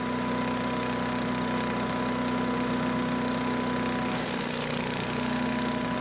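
Earthquake 212 chipper shredder's small gas engine running steadily while mulching leaves. A brighter rushing hiss joins about four seconds in.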